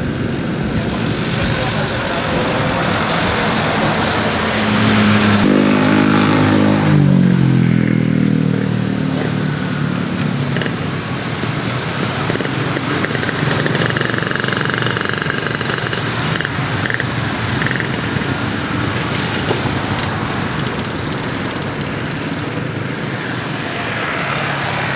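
Steady engine and traffic noise. About five seconds in, a passing engine's pitch falls over several seconds.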